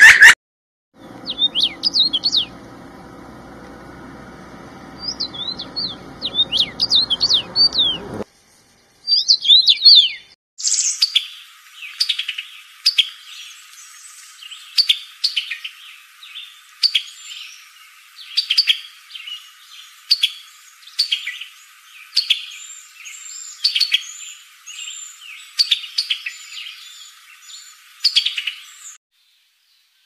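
Birds chirping in short high-pitched phrases over a low steady hum for the first eight seconds. After a short gap comes a different bird song, a short phrase repeated about once a second with sharp clicks, which cuts off near the end.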